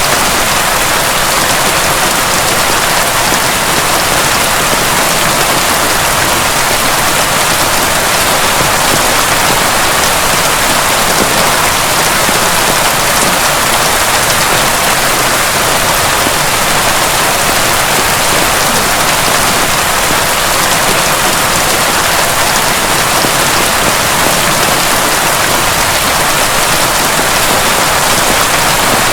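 Heavy rain pouring steadily, a dense even hiss of drops with no thunder.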